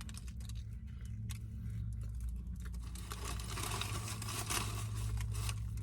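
Paper sandwich wrapper crinkling and rustling as a sub is handled and unwrapped, with scattered light crackles that get denser about three seconds in. A steady low hum runs underneath.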